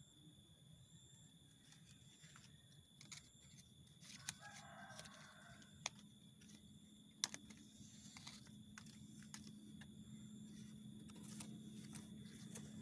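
Near-silent outdoor background with a faint distant bird call, about a second long, starting about four seconds in, and a few sharp clicks a little later.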